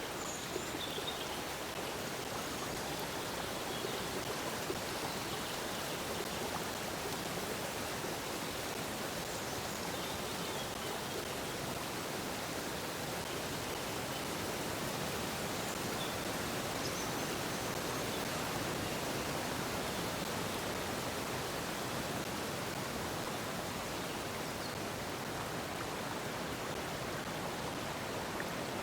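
Stream water flowing in a steady, even rush. A few faint, brief bird chirps sound now and then above it.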